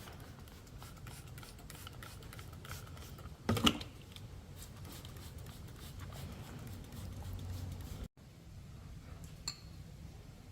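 Metal parts and hand tools being handled and set down, with scattered light clicks and one louder metallic clatter about three and a half seconds in.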